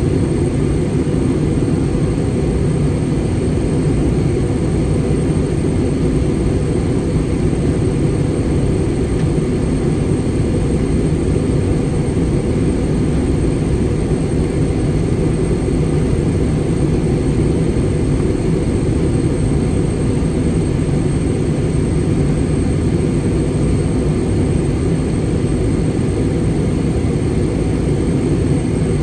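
Steady cabin roar inside an Airbus A320 airliner on descent: engine and airflow noise, heaviest in the low range and unchanging, with a faint thin high tone held throughout.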